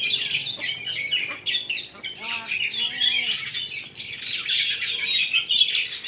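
Several oriental magpie-robins (kacer) singing at once: a dense, continuous chorus of rapid chirps and whistled phrases. The birds are singing hard together, the full song keepers call nangkur.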